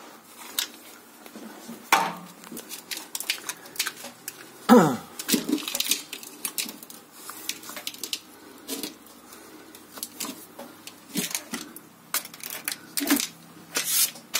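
Irregular light clicking and clattering of hands and tools handling small metal and plastic parts, with a few short vocal sounds mixed in.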